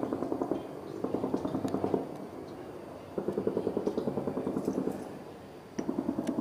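Military helicopter in flight, a rapid low chop of its rotor that comes and goes in spells of one to two seconds.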